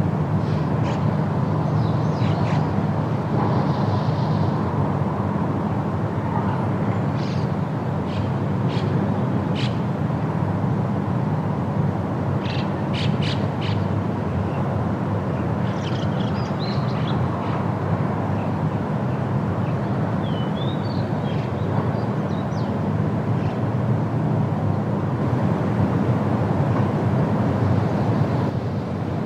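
Steady wind through tree leaves, with short bird chirps scattered throughout, some in quick little runs.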